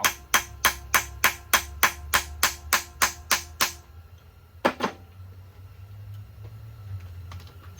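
Hand tool working a fastener on an engine: sharp metallic clicks or taps with a brief ring, evenly spaced about three a second, stop after nearly four seconds, then two more knocks come about a second later. A low steady hum runs underneath.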